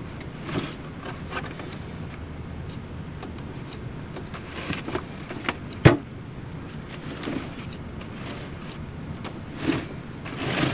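A wicker picnic basket being handled, with scattered light knocks and rustles and one sharp click a little before halfway, over a steady low hum.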